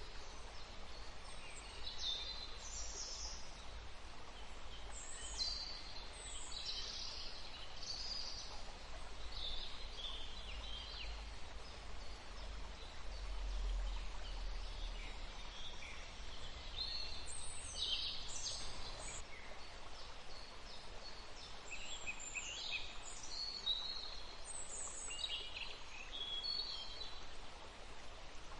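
Several songbirds chirping and trilling in a forest, short high-pitched phrases coming every second or two over a faint steady hiss and low rumble.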